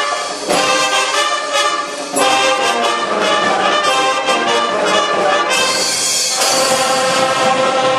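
High school marching band's brass section playing, moving through several chords and then settling into a long held chord about six and a half seconds in.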